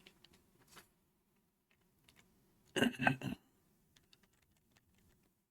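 Computer keyboard and mouse clicking: a few faint clicks, then a short quick run of louder keystrokes about three seconds in.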